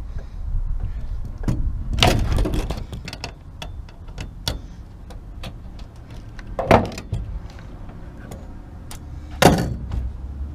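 Metal tools and small parts being handled during hedge-trimmer reassembly: scattered clicks and clinks, with louder knocks about two seconds in, about seven seconds in and near the end.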